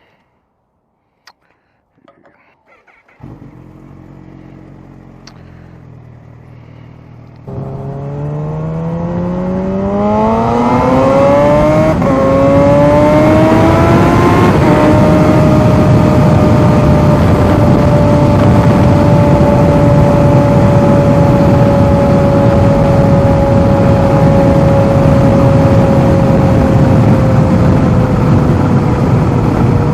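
Kawasaki Z H2 motorcycle's supercharged inline-four engine idling from about three seconds in, then pulling away about seven seconds in, its pitch rising through one gear change before settling into a steady cruise. Wind noise on the microphone comes in as it gathers speed.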